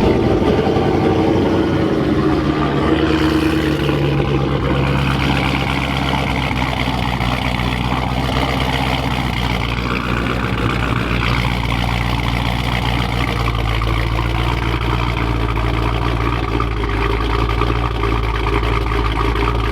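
Nissan 370Z's 3.7-litre V6 engine running steadily under way, with road and wind noise.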